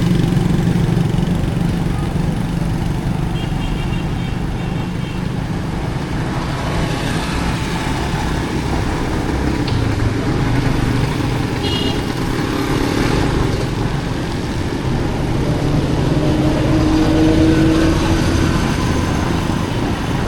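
Street traffic in a busy market: motorcycle and car engines running and passing continuously, with a brief high tone about twelve seconds in.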